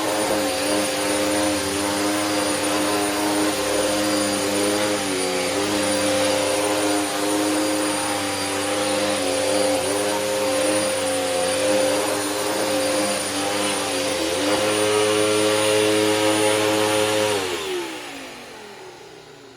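Upright vacuum cleaner running steadily, its hum shifting in pitch a couple of times. About 17 seconds in it is switched off and winds down, the hum falling in pitch as it fades.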